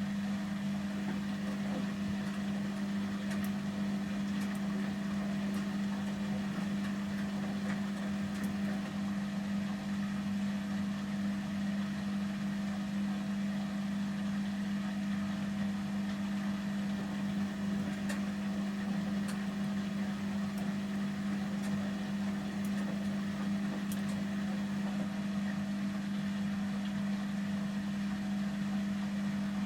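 Samsung Series 5+ front-loading washing machine in its 800 rpm final spin, running steadily at full speed: a constant hum at one unchanging pitch.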